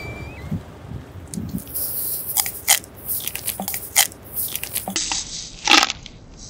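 Someone biting and chewing crunchy snack food: a run of irregular sharp crunches and crackles.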